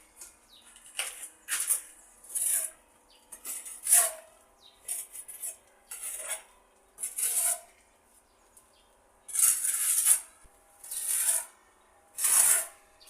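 A metal trowel scraping cement plaster in about a dozen short, irregular strokes, with one longer stroke about nine seconds in.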